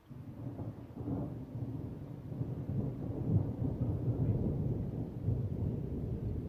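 Thunder: a peal that starts suddenly and rolls on as a low rumble, loudest about three seconds in.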